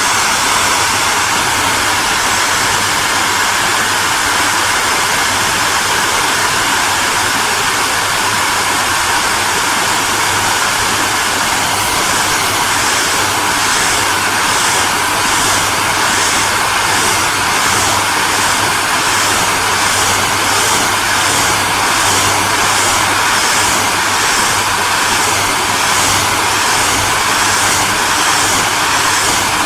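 Hair dryer running steadily: a loud, even blowing rush over a low motor hum. About twelve seconds in, a faint regular pulsing comes into the high part of the hiss.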